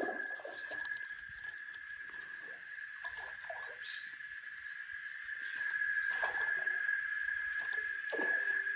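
A steady, high-pitched insect chorus, one unbroken note, with scattered soft rustles and knocks.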